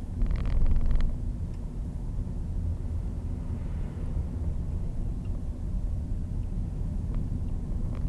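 Steady low rumble of a vehicle in motion, with a short burst of hissing noise about half a second in.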